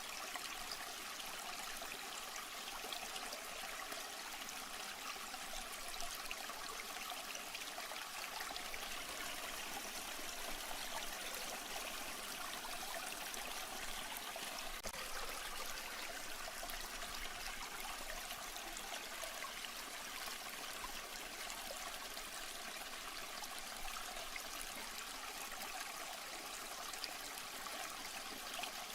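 Steady running, trickling water with no breaks.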